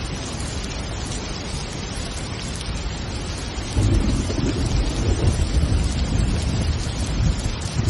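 Steady rain falling, with a low rumble of thunder that comes in suddenly about halfway through and rolls on.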